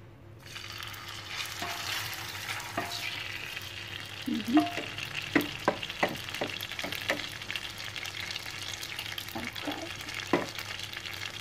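Blended spice paste sizzling as it goes into hot oil in a glass casserole dish, the hiss starting about half a second in. Several sharp knocks of the spatula against the glass dish as the paste is spread.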